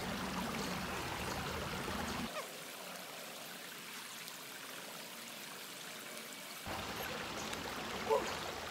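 A stream of water running steadily. A brief higher-pitched sound comes near the end.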